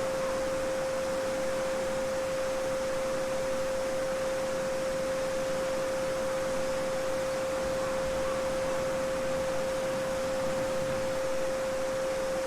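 A steady 528 Hz sine tone (the Solfeggio frequency) held without a break over the even rush of a babbling brook.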